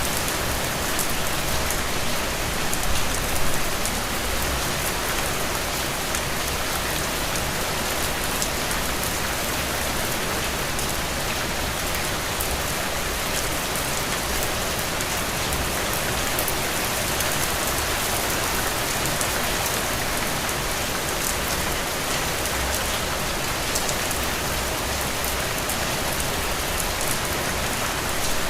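Steady rain falling on a surface, an even hiss with many small drop ticks, a little louder for a moment about three seconds in.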